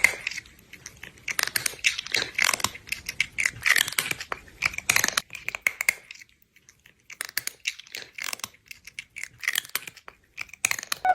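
Irregular crunching and crinkling clicks, pausing briefly about six seconds in before resuming.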